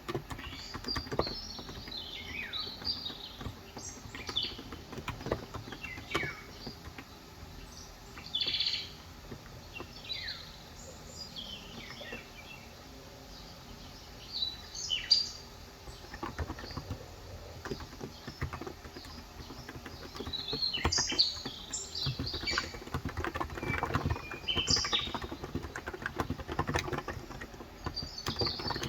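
Birds chirping in short, quick downward-sweeping calls, over typing on a COX Endeavor electro-capacitive (topre-style) keyboard with 35 g switches. The keystrokes become a steady run about halfway through.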